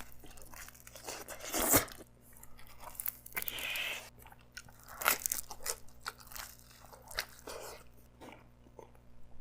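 Close-up chewing of a mouthful of hot cheese pizza, with crunches of the crust, the loudest about two seconds in and again about five seconds in.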